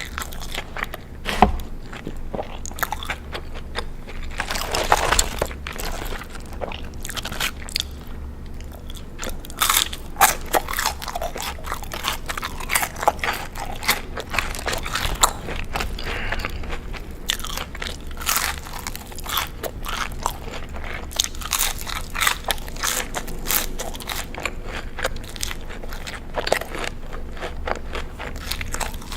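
Close-miked crunchy biting and chewing of food: a dense, irregular run of crackling crunches, with a few sharper, louder bites along the way.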